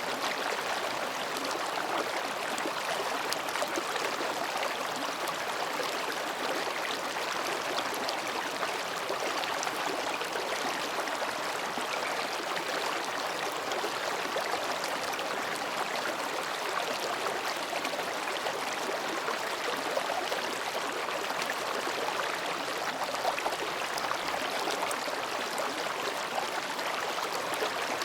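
Mountain stream babbling over and between rocks: a steady, even rush of running water with no pauses.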